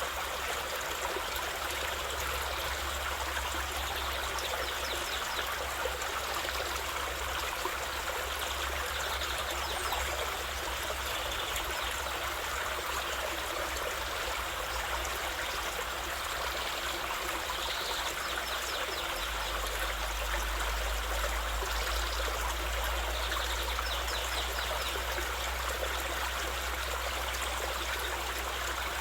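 A stream flowing, a steady, even rush and trickle of water.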